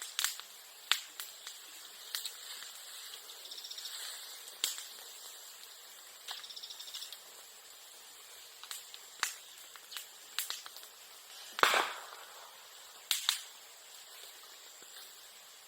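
Bamboo and bamboo grass burning in a bonfire, cracking and popping with sharp irregular snaps, the loudest a little before and after the 12-second mark. A faint high insect-like trill comes twice in the first half.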